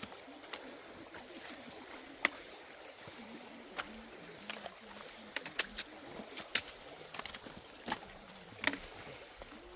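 Trekking poles and footsteps on a rocky rainforest trail: a dozen or so irregular sharp taps and knocks over a faint steady hiss of the outdoors.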